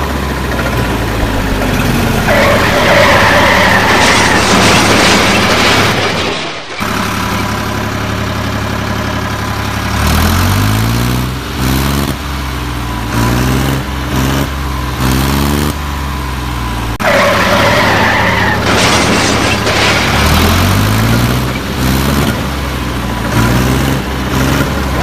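Vehicle engine sound effect revving up again and again, about once a second or so, with a stretch of screeching like skidding tyres; the sequence repeats as a loop.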